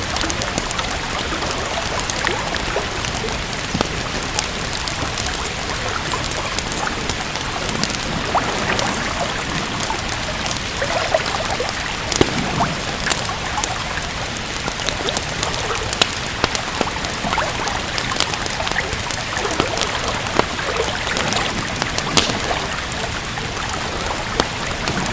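Steady rain with a crackling wood fire: an even hiss of falling rain, dotted throughout with short sharp pops and snaps.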